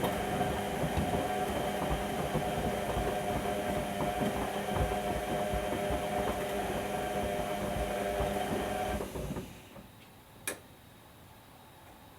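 Whirlpool washing machine running, a steady whine with a rough, churning rumble underneath, stopping abruptly about nine seconds in. A single sharp click follows about a second later.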